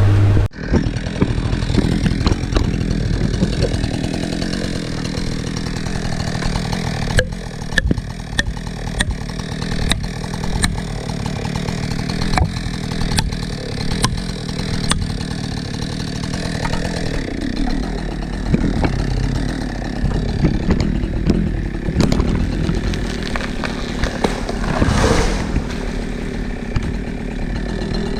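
Chainsaw engine running, with a string of sharp knocks from about seven to fifteen seconds in.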